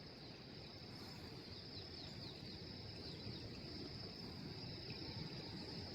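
Insects chirring steadily at a high pitch over a low rushing background. In the first half a run of quick falling chirps repeats about four times a second.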